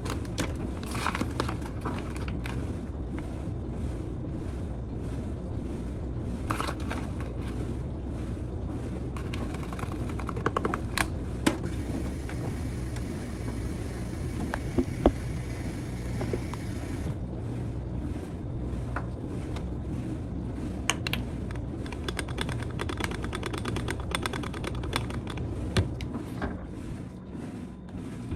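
Scattered clicks and taps of small objects being handled, over a steady low hum.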